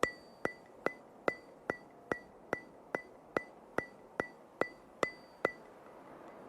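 A ticking sound effect: fourteen evenly spaced sharp, metronome-like ticks, about two and a half a second, each with a brief high ring. They stop about a second before the end.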